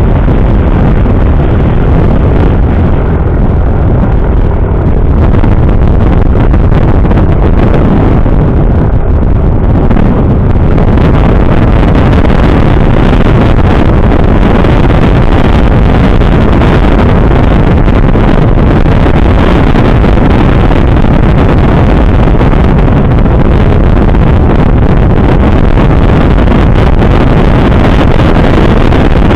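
Heavy wind noise buffeting the microphone on a moving motorcycle, with road and engine noise underneath. It grows louder and brighter about ten seconds in, as if the speed picks up.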